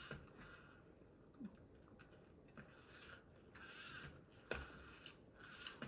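Faint eating sounds: chewing and handling of cooked prawns, with scattered small clicks and soft rustles, the sharpest click about four and a half seconds in.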